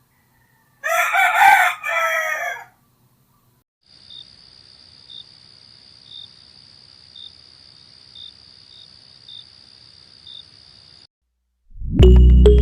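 A rooster crowing once, a call of about two seconds near the start. After it, a faint steady high-pitched drone with soft chirps about once a second, and loud music comes in near the end.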